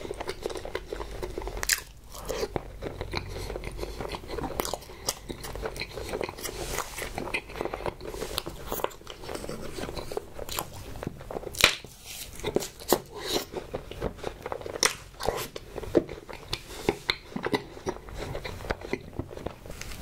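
A man chewing and biting strawberry desserts close to the microphone, with many sharp mouth clicks and bites scattered throughout.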